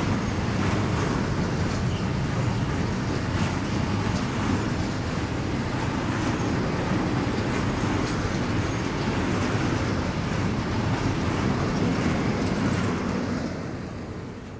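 Container flat wagons of a freight train rolling past close by: a steady rumble of steel wheels on the rails. It fades away near the end as the last wagon goes by.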